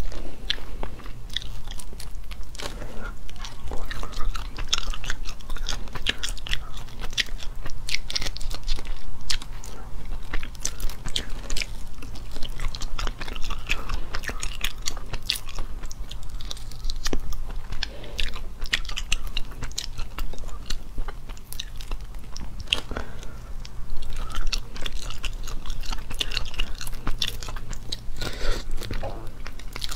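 Close-miked chewing and crunching of small shell-on shrimp: an irregular, continuous run of crisp crackles as shells are bitten through and pulled apart by hand, with wet chewing in between.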